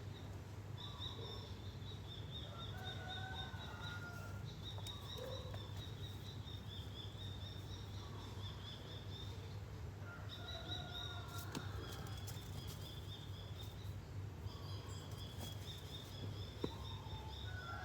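Birds chirping in repeated high trilled phrases a few seconds long, with some lower notes between them, over a steady low hum.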